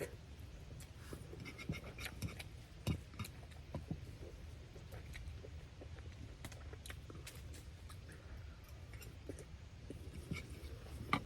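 A person eating noodles: quiet chewing with scattered small clicks and taps, over a steady low hum.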